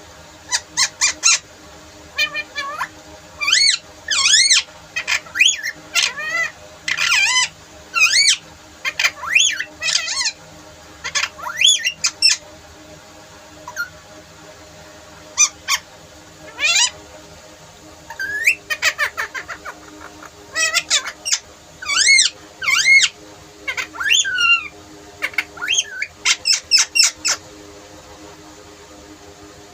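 Pet parrot squawking and chirping: a long run of short, high calls in bunches, with a few pauses between them.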